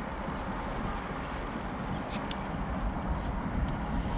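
Steady rush of wind on the microphone and tyre noise while riding an e-bike, with a few light clicks a couple of seconds in.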